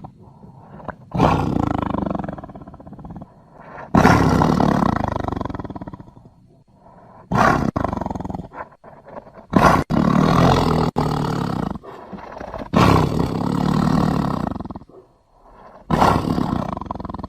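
Tiger roaring: a series of about six loud, rough roars, each lasting one to two seconds, with short pauses between them.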